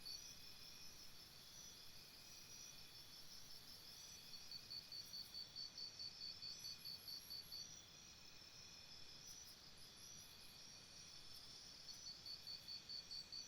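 Crickets and other insects chirping faintly in a jungle ambience: a pulsing chirp at about four or five a second that pauses for a few seconds midway and returns near the end, over a steady high trilling.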